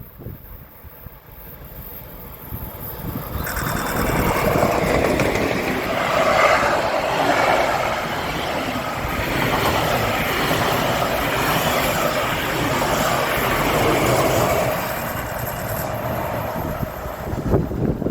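A train passing along the line: its rumble builds over the first few seconds, stays loud for about ten seconds, then eases off near the end.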